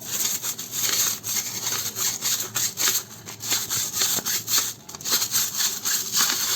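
Dishwasher filter being scrubbed by hand, a rapid run of quick back-and-forth rubbing strokes.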